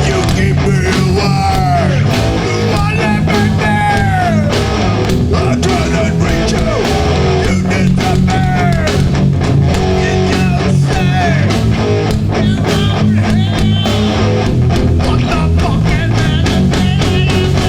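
Hardcore punk band playing a slow song live: distorted electric guitars with bending lead notes over bass and drums.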